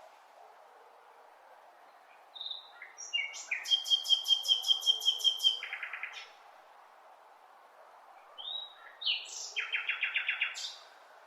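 A songbird singing two phrases of quick, evenly repeated high notes, one starting a couple of seconds in and a shorter one near the end, over faint steady background noise.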